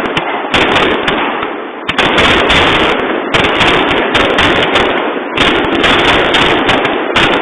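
Aerial fireworks bursting in quick succession, a dense run of bangs and crackle with fresh volleys about half a second, two seconds and five and a half seconds in.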